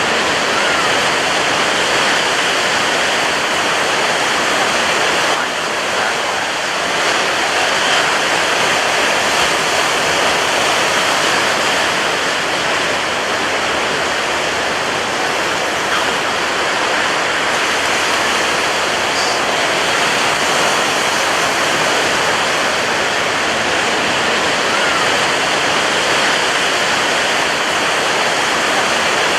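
Ocean surf breaking on a beach, a loud, steady wash of white water with no quiet gaps between waves.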